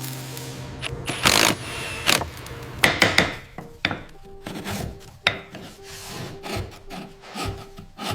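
Irregular scraping and rasping strokes of hand tools working on metal, with a faint steady tone in the second half.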